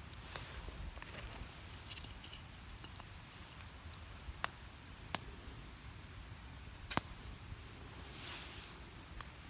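Burning firewood crackling: scattered sharp pops, a handful in all, the loudest about five seconds in, over a faint low hiss.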